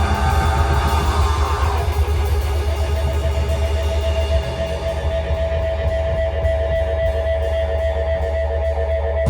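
Live rock band playing loud and heavy on electric guitars, bass and drums, with no vocals. About a third of the way in, a single high note is held steadily over the band, and everything stops suddenly at the very end.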